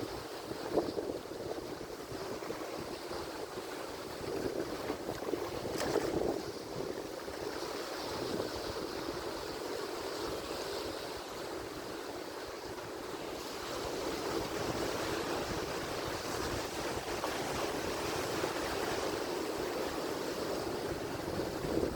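Atlantic Ocean surf: waves breaking and washing in a continuous rush, swelling briefly about six seconds in and growing fuller from about two-thirds of the way through.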